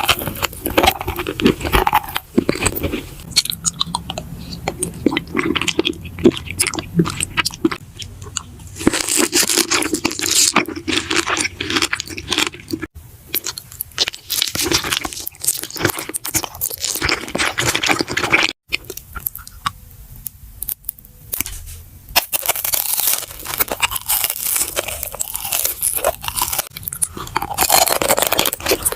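Close-miked eating: dense crisp crunching and chewing, with a brief break about two-thirds of the way through.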